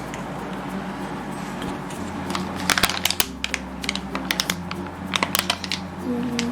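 Colouring pens being rummaged through and picked out: a run of sharp small clicks and clatters starting about two seconds in and easing off near the end.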